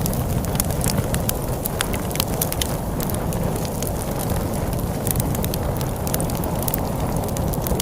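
Wood fire crackling with frequent sharp, irregular pops over a steady low rumble of storm wind.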